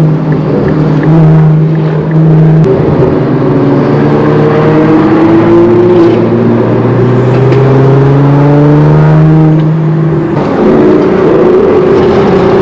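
Car engines running loudly, more than one at once. One engine's pitch steps down about two and a half seconds in. Another climbs slowly in pitch through the middle, as a car pulls away gently under light throttle, and drops off just after ten seconds.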